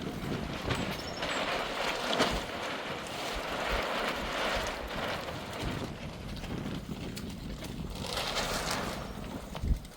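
Wind gusting against the microphone, a rushing noise with low buffeting that swells and eases.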